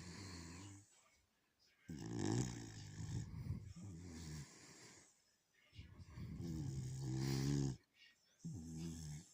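Beagle snoring in its sleep: a series of rasping, pitched snores, one on each breath, each lasting a second or two with short quiet pauses between them.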